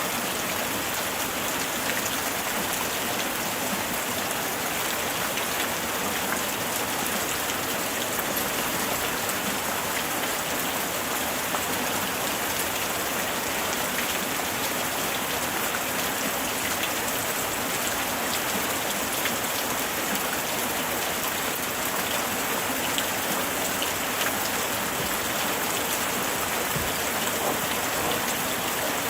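Steady light rain falling and pattering on surfaces, an even hiss dotted with many small drop ticks.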